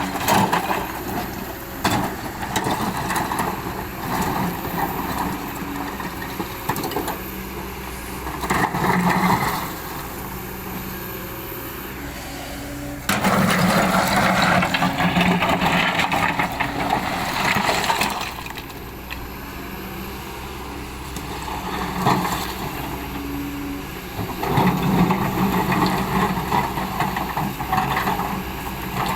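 Excavator's diesel engine running, rising in louder surges several times as the machine works, with a few sharp knocks.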